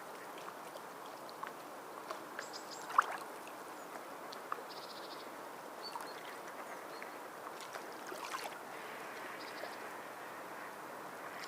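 Sea water lapping and sloshing in a steady wash, with small splashes and clicks, the sharpest about three seconds in. Two short, high, rapid trills sound over it.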